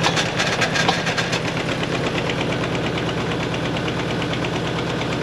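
An engine running steadily at idle, with a rapid, even ticking clatter over a low hum.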